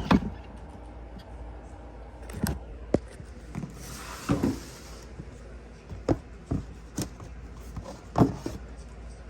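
Handling noises from reptile enclosures being worked during feeding: a few scattered knocks and clunks over a low steady hum, with a brief hiss about four seconds in.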